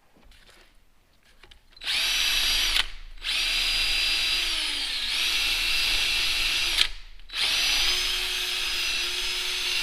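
Handheld electric power tool whining at high speed in three runs, stopping briefly twice, while cleaning up a diesel cylinder head's valve seats. Its pitch sags for a moment midway, as if under load.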